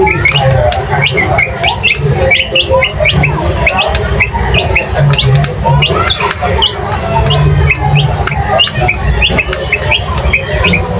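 Many birds chirping at once, with short rising chirps several times a second over a steady low background noise.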